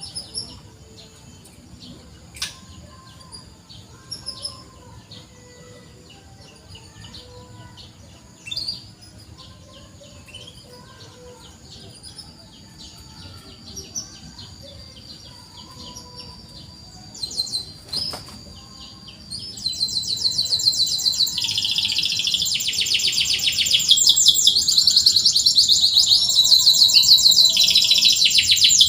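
Domestic canary singing: scattered faint high chirps at first, then about twenty seconds in a loud, fast, trilling song of rapid repeated high notes.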